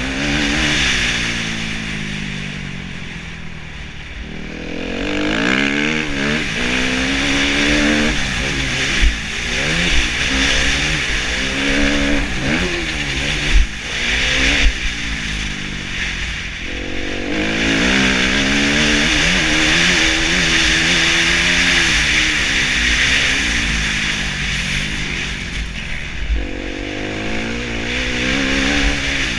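2013 Kawasaki KX250F's single-cylinder four-stroke engine revving hard while riding, its pitch rising and falling again and again through the gears, over a steady rushing noise. A few sharp knocks stand out in the middle.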